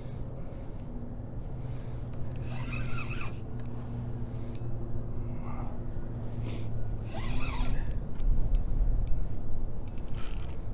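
An angler breathing hard with short gasps and grunts while fighting a hooked fish on rod and reel, over a steady low hum.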